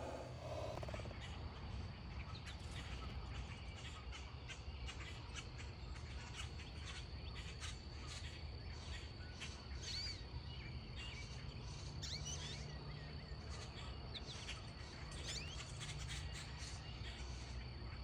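Backyard birds chirping, with many short chips and a few gliding calls over a steady high insect drone and low outdoor background rumble.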